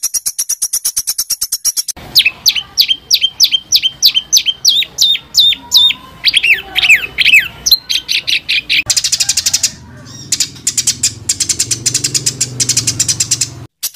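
Songbird song used as masteran tutor material: a fast high trill, then a run of sharp notes repeated about three times a second, each sliding steeply down in pitch, then a dense, very high rapid trill that cuts off just before the end.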